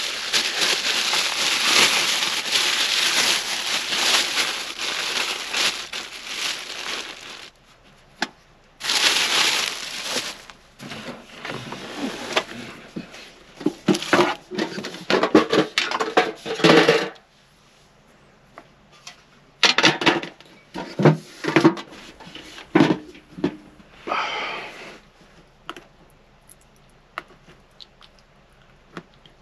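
Plastic packaging rustling and crinkling for about seven seconds, then intermittent clatter and knocks from food and containers being handled.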